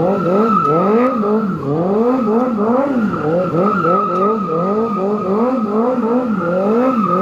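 A car engine being revved up and down over and over, about two rises a second, under a steady high tire squeal: a car doing a burnout.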